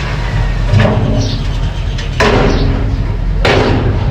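Mini bulldozer's engine running steadily, with three heavy clunks about a second and a half apart.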